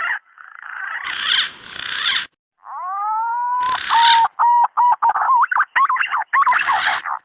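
Green pigeon (punai) calls played as a trapping lure: harsh, rasping notes, then about two and a half seconds in a rising whistle that runs into a quick series of short whistled notes broken by more rasping bursts.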